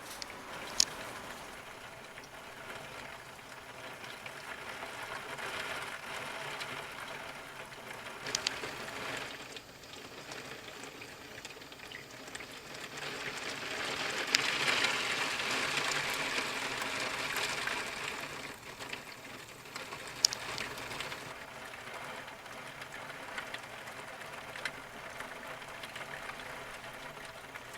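Typhoon rain and wind: a steady rush of rain that swells for several seconds in the middle as a gust comes through, with a few sharp ticks of drops or debris striking a surface.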